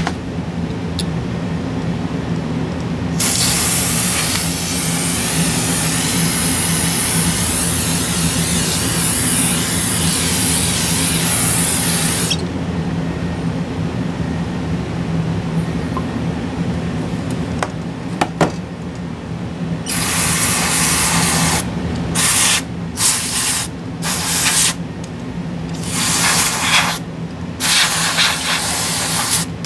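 Spray can of cleaner sprayed onto a graphics card's circuit board: one long hiss of about nine seconds, then a string of short bursts near the end, over a steady low hum.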